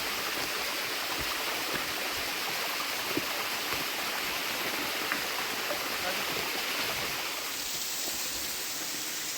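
Rushing water of a stream or waterfall: a steady, unbroken rush.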